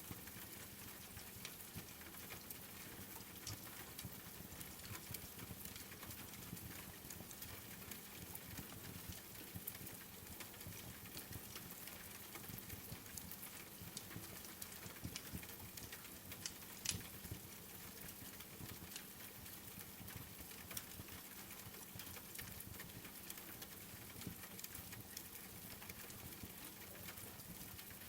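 Steady rain pattering, mixed with the small crackles and pops of a wood fire in a fireplace; one louder pop a little past halfway.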